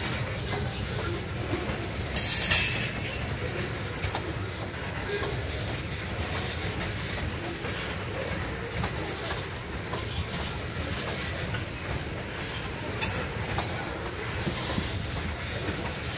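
Loaded ethanol tank cars of a freight train rolling past: a steady low running noise of steel wheels on rail. A loud, high wheel squeal comes about two seconds in, and fainter squeals come near the end.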